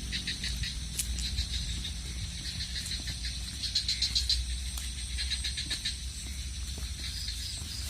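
Short bursts of rapid, high chirping pulses, repeated every second or so, a sound likened to swiftlet calls. A steady low rumble of road traffic lies underneath.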